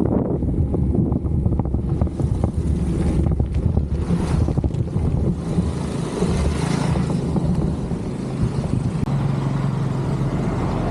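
Wind buffeting the microphone of a camera riding on a moving bicycle: a steady low rumble with irregular gusts, and a brief rush of hiss about four seconds in and again around six seconds in.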